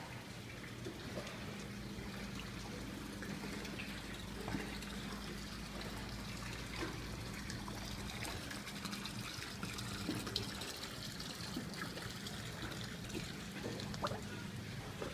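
Water trickling and lapping, with small scattered clicks and splashes, over a steady low hum.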